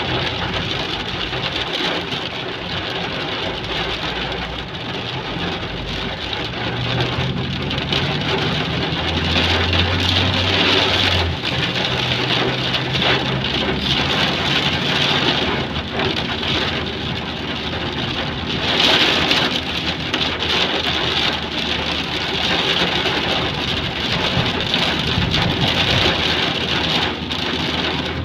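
Heavy rain pouring steadily. The low hum of a vehicle engine runs under it for several seconds in the middle.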